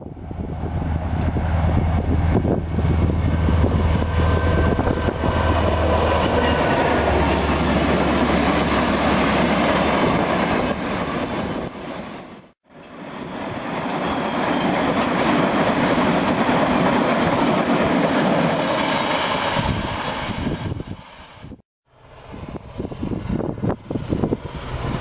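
Narrow-gauge diesel freight train passing close: a steady low engine hum under the noise of steel wheels on the rails, then a long train of cattle wagons rumbling and clattering past. The sound cuts off suddenly twice; the last few seconds are quieter, mostly wind on the microphone.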